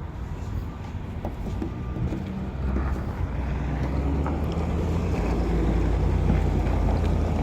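A vehicle engine running steadily, its low hum growing louder about a third of the way in and then holding, with light wind noise on the microphone.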